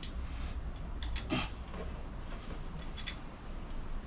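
A few light clicks and a short knock from metal and tools being handled during sheet-metal work, about one second in and again near three seconds, over a low steady hum.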